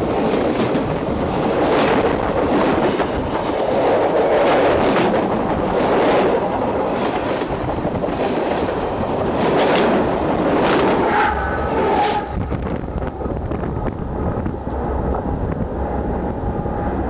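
Freight train cars rolling directly overhead: a loud, heavy rumble of steel wheels on the rails with repeated clacks as wheelsets pass over the spot. About twelve seconds in the last car clears and the sound drops to a quieter rumble with a faint steady ringing tone.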